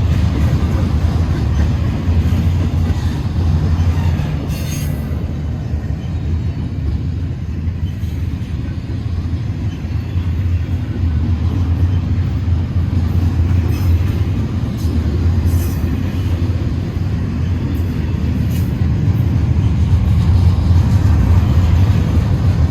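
CN freight train of intermodal stack cars rolling past: a steady, heavy rumble of steel wheels on the rails, with occasional sharp clicks as the wheels cross the rail joints.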